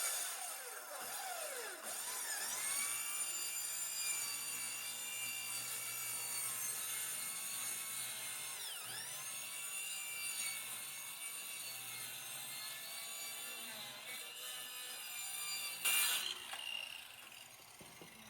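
Electric power saw running with a high, steady whine, its pitch dipping briefly a few times as it bites into the cut. A short, louder burst of noise comes near the end.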